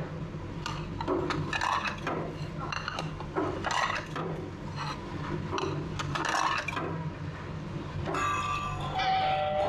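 Revolving sushi restaurant ambience: indistinct diners' chatter over a low steady hum, with light clinks of dishes. About eight seconds in, a short electronic tune with held notes sounds.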